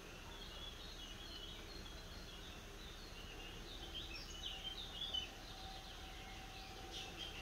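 Small birds chirping and calling over a low, steady outdoor background noise, with a quick flurry of calls about four to five seconds in.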